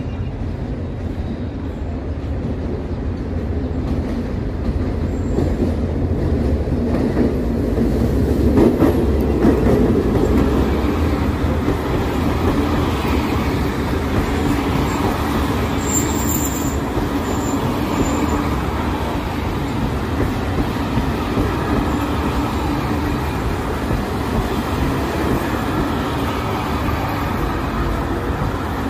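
Passenger train on the Abu Qir line passing close by. It grows louder as it approaches and is loudest about nine seconds in, then the coaches roll past with a steady rumble and clatter, with a few short high wheel squeals about halfway through.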